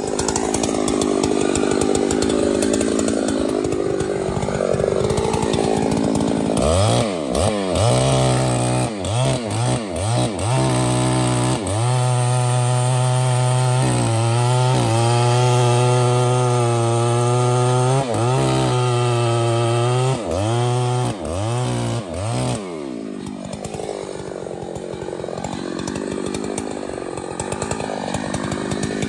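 Chainsaw engine revving in quick blips, then held at high revs for about ten seconds before dropping back.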